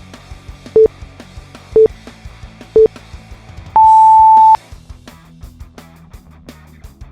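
Interval timer countdown: three short beeps about a second apart, then one longer, higher beep marking the change of interval, over rock-style background music.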